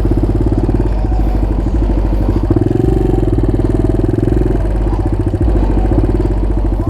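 Suzuki DR200 dirt bike's single-cylinder four-stroke engine running at low road speed, a steady even pulsing that picks up slightly about two and a half seconds in.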